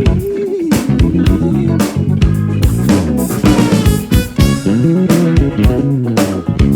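Live band playing an instrumental passage: an electric guitar lead with bent notes over a bass guitar line and a drum kit keeping a steady beat.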